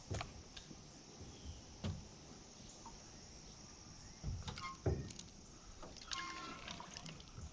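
Faint scattered knocks and low bumps of fishing gear being handled in a small boat, over a steady high hiss.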